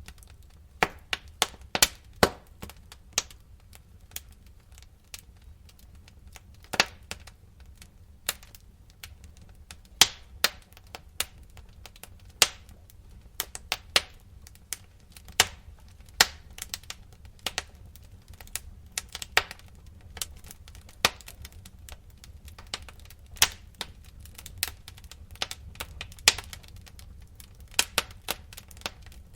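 Wood fire crackling in a fireplace: irregular sharp pops and snaps, sometimes several in quick succession, over a low steady rumble.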